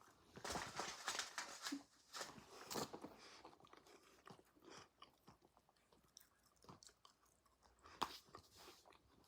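A person chewing and crunching on food close to the microphone: faint, irregular crunches, busiest in the first few seconds and then more spread out.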